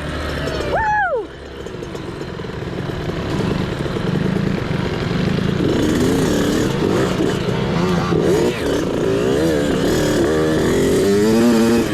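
Small off-road mini bike engine revving up and down, growing louder over the first few seconds. A short rising-and-falling shout comes about a second in.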